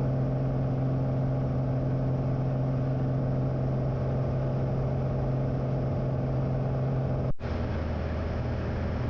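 Steady drone of a light single-engine plane's piston engine and propeller, heard in the cabin during cruise. About seven seconds in it cuts out for an instant and resumes at a lower pitch.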